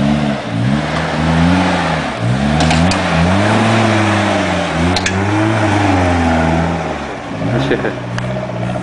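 Lifted Suzuki Jimny's engine revving up and down in slow surges as it crawls over a deep sandy rut on oversized tyres. A few sharp knocks come through about a third, halfway and near the end.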